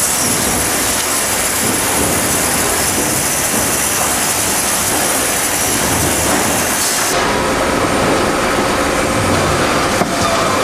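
Sawmill line machinery for pallet boards running, a loud steady industrial clatter and hiss. About seven seconds in the sound changes abruptly: the high hiss drops away and faint steady hums come in.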